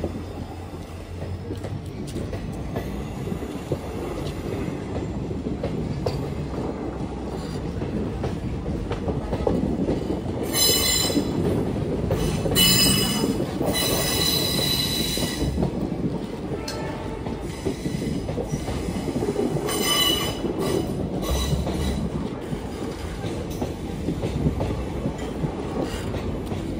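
Passenger train coaches running past at speed, a steady rolling rumble of wheels on rail. Three times in the middle the wheels let out a high-pitched squeal, the longest lasting about three seconds.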